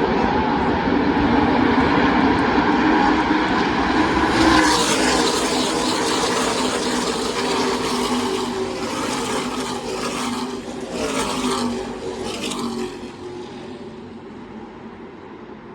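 NASCAR Truck Series race trucks' V8 engines at racing speed going past in a pack. The sound swells to its loudest about four and a half seconds in, then several trucks go by one after another, each a separate loud pass, before it fades near the end.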